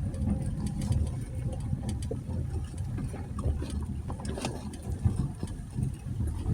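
Jeep Gladiator pickup driving slowly on a dirt trail: a steady low engine and road rumble, with scattered small clicks and knocks.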